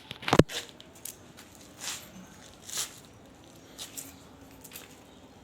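A sharp knock about half a second in, then a few fainter knocks and scuffs of things being handled.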